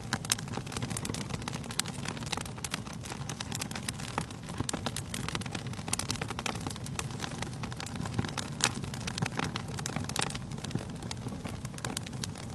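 Wood fire burning in a fireplace, a steady low rumble of flames with many sharp, irregular crackles and pops from the burning logs.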